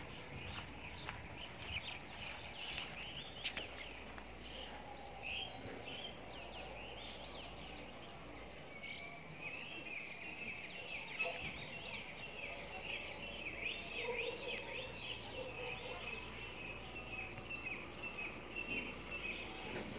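Faint outdoor birdsong: many small birds chirping in short high calls, with one long run of quickly repeated chirps from about nine seconds in.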